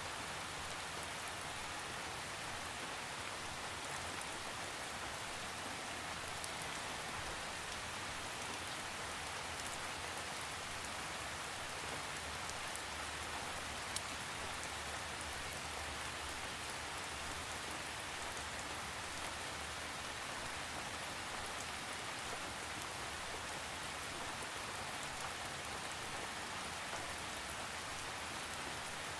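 Steady rain falling, an even hiss with scattered individual drop ticks, without thunder; one slightly louder drop tick about halfway through.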